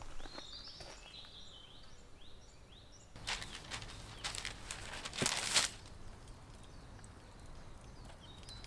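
Small birds chirping in quick rising notes, then a burst of rustling, crackling noise lasting a couple of seconds from about three seconds in.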